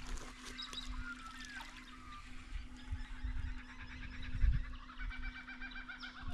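Birds calling: a few short gliding calls, then a rapid run of repeated notes near the end, over a steady low hum.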